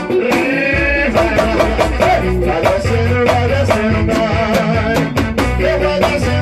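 A live band playing an instrumental stretch of a song, with a steady, busy percussion beat over bass and melodic instruments.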